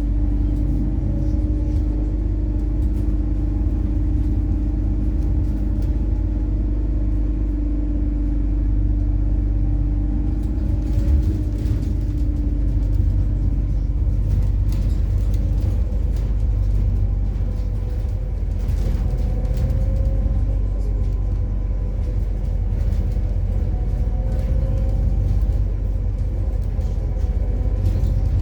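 Inside a MAZ-103 city bus running on methane while it drives: a steady low engine and road rumble, with a whine that fades out near the middle.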